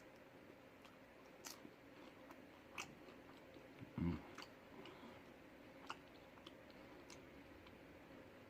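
Quiet close-up eating sounds: a person chewing food, with scattered sharp mouth clicks and a brief low thump about four seconds in.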